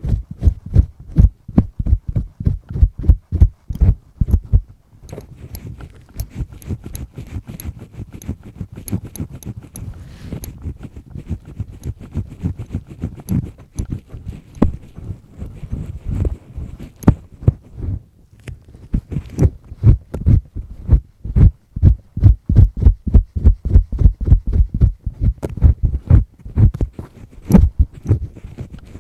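Double-disc earpick scraping firmly in an ear close to the microphone: quick, rhythmic rubbing strokes, several a second. They turn softer and sparser for a stretch in the middle, then grow dense again.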